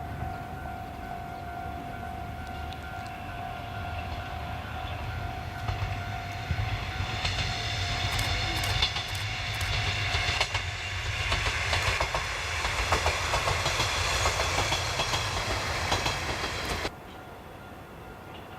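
Japanese National Railways-type KiHa 20 diesel railcar running: a low engine rumble with a steady high whine over the first half. It then grows louder, with wheels clicking over rail joints, and cuts off suddenly near the end.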